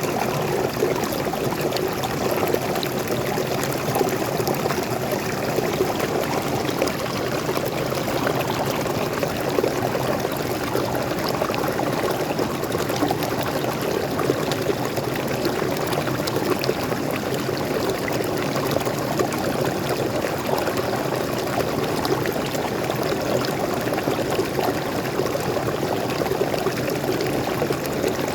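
Small forest waterfall and stream, water pouring and splashing steadily.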